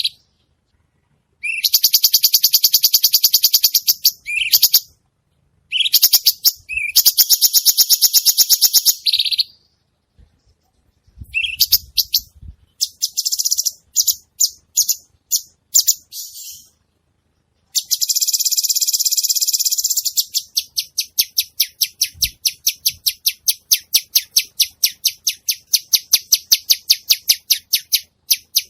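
Cucak cungkok songbird singing vigorously: high, buzzy, fast-pulsed trills in bursts of two to three seconds with short pauses between them. From about two-thirds of the way in, the song becomes a long run of rapidly repeated notes.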